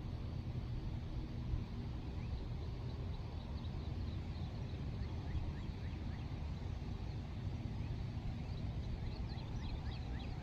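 Birds chirping faintly in short, quick notes, more of them near the end, over a steady low rumble.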